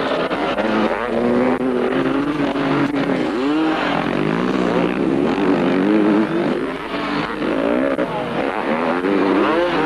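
Several motocross bike engines revving hard on the track, their pitch rising and falling over and over as the riders accelerate and shift, several bikes overlapping.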